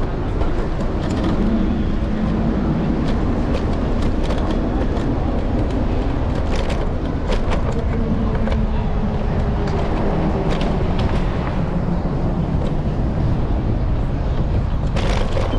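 Electric scooter riding over city pavement, heard from a handlebar-mounted camera: a steady low rumble of wheels and wind with frequent short rattling knocks from bumps in the road.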